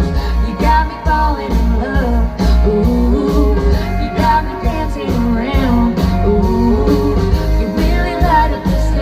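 Live band music with a steady drum beat, heavy bass and guitar, a melody line gliding over it.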